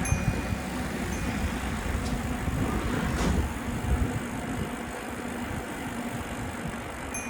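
City street traffic and road noise heard while riding a bicycle, a steady low rumble that swells for a moment around the middle.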